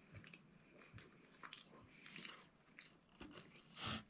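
A person chewing a mouthful of MRE food, faint close-up mouth sounds with small irregular crunches and clicks.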